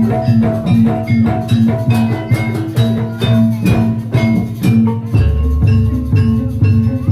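Jaranan gamelan ensemble playing live: drums and tuned metal gong-chime percussion in a steady, fast repeating pattern. A deep low stroke sounds about five seconds in.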